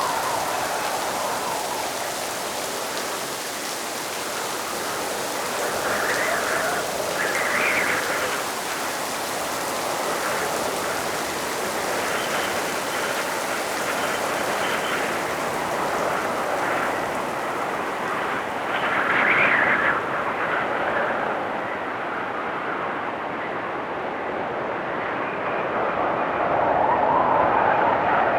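Steady rain hiss from a layered storm ambience, with recurring swells rising and falling every few seconds. In the last third the bright top of the hiss fades away as the mix changes.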